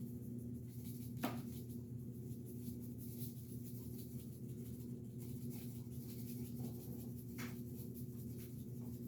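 Hands rubbing seasoning over raw turkey skin, a soft scratchy rubbing, over a steady low hum. A sharp click comes about a second in and another at about seven seconds.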